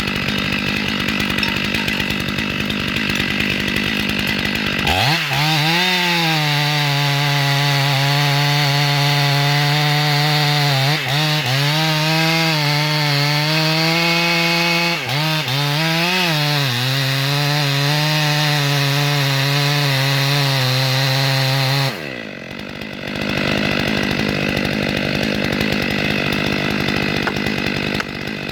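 Stihl chainsaw idling, then run up to full throttle about five seconds in and held high, cutting wood, with the engine note dipping briefly a few times. It drops back to idle near the end.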